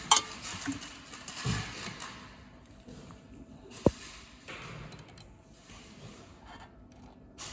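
Faint handling noises of small metal parts being adjusted on a soldering machine, with a few soft knocks and one sharp click about four seconds in.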